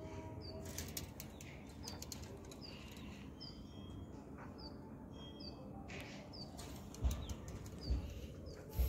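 A small bird repeating a short, high chirp every half second or so over steady low background noise, with a few low thumps near the end.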